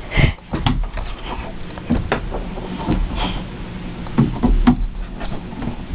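Irregular knocks and bumps, a few every second, as someone climbs the ladder into a tree fort while holding the camera.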